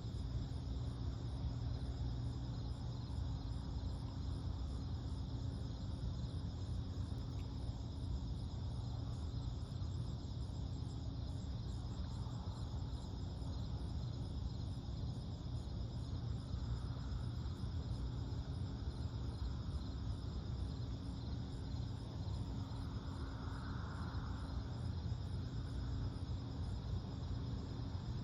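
Night insect chorus, crickets chirring continuously in steady high-pitched bands with a fast even pulse, over a constant low hum.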